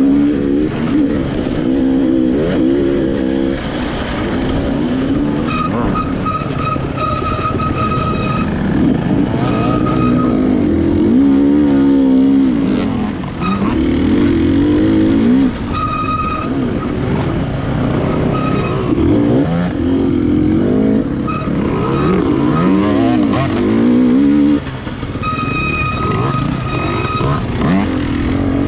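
KTM EXC 300 TPI single-cylinder two-stroke enduro engine revving up and down over and over under load on a dirt course, heard from on board. The throttle is chopped off briefly a few times. Other dirt bikes are running close by.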